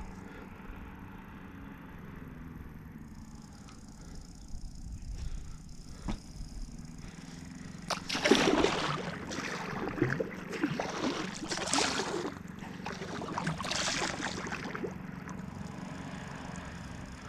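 Water sloshing and dripping around a kayak, with about four paddle-stroke splashes roughly two seconds apart in the second half; the first is the loudest.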